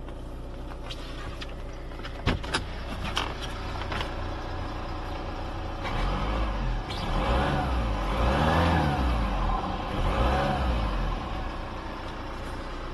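2005 Audi A6 2.0 TDI's four-cylinder turbodiesel idling, then revved up and back down a few times from about six to eleven seconds in, before settling back to idle. A few sharp clicks sound in the first few seconds.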